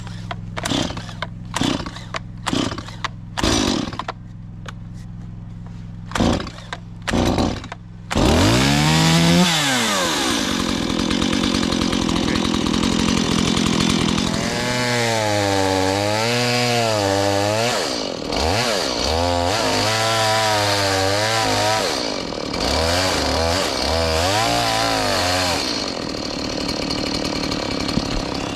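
Two-stroke Stihl MS 180 chainsaw being pull-started, with a series of short cord pulls before it catches about eight seconds in. It then runs, with its engine speed rising and falling several times as the throttle is worked.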